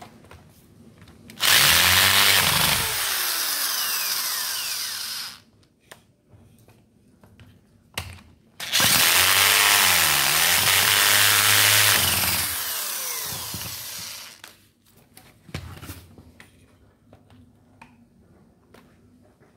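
A handheld power tool's motor runs in two bursts, the first about four seconds and the second about six, its pitch sagging and recovering as it takes load. Small clicks and knocks of parts being handled come between and after the bursts.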